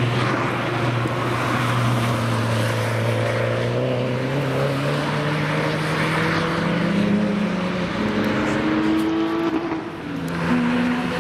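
Cars accelerating hard on a race track, with more than one engine heard at once and their pitch climbing steadily over several seconds. The sound dips briefly near the end, then picks up again.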